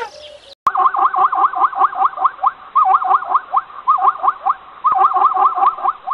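Plains zebra barking call: a rapid run of high, yelping barks, about four or five a second, in several bouts, starting about half a second in.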